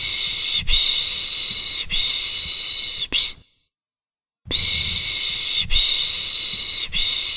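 A person shushing a baby with the soothing 'pış pış' (shhh) sound: long hushing breaths of about a second each, three to a run with a short one at the end, and about a second of silence between runs.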